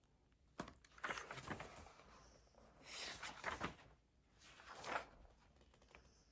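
Things being handled on a study desk: a click, then three short rustling scrapes about a second apart.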